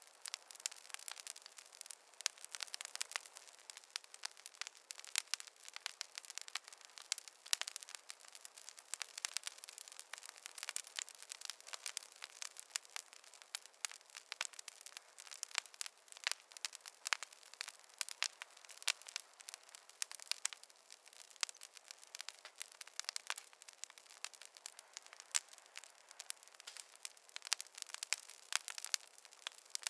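Wood fire crackling in a fireplace: a dense, irregular run of small pops and snaps over a faint hiss, with no low sound beneath.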